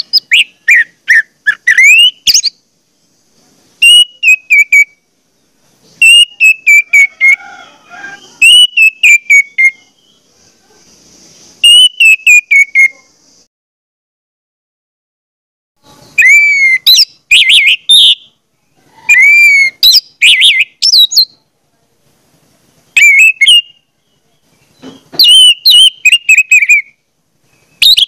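A bird calling in repeated bursts of loud whistled chirps, many sliding down in pitch, with short pauses between bursts.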